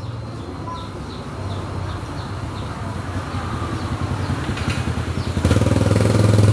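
A small engine running with a fast, even pulse that slowly grows louder, then jumps clearly louder about five and a half seconds in.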